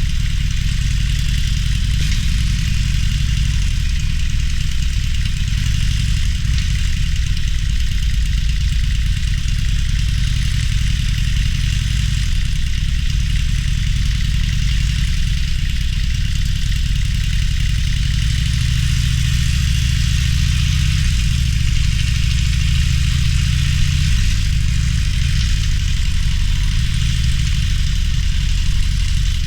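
Harley-Davidson Roadster's V-twin engine running steadily with a deep low rumble, its pitch shifting a little past the middle.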